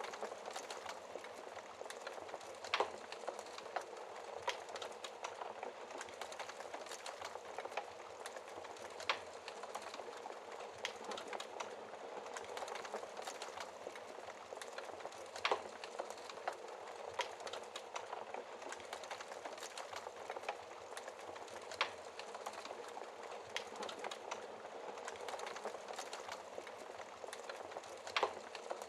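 Wood fire burning in a fireplace: a steady hiss of flames with constant small crackles and a sharp louder pop about every six seconds.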